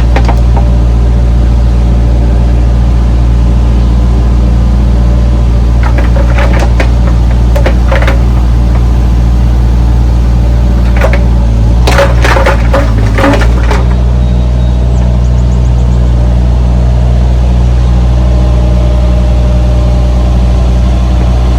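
A 2002 Bobcat compact excavator's diesel engine running loud and steady while it digs. Bursts of cracking and clattering from the bucket come about six to eight seconds in and again about eleven to thirteen seconds in.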